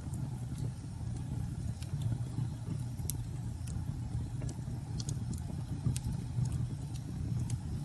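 Wood fire crackling, with sharp, irregular pops and snaps a few times a second over a steady low rumble.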